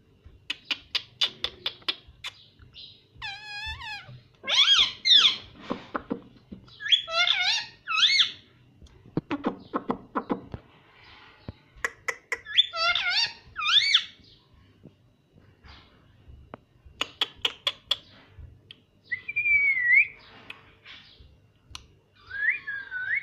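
Talking parrot making rapid runs of clicking sounds, several times over, between bursts of chattering calls that bend up and down in pitch, and a short gliding whistle near the end.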